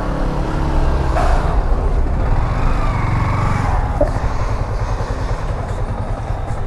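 Motorcycle engine running at low revs, a steady low rumble, with a couple of short clicks.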